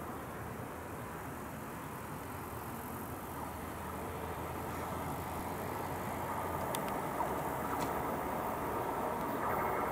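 Two coupled ICE T electric multiple units (class 415) approaching at a distance, their steady rolling noise growing gradually louder.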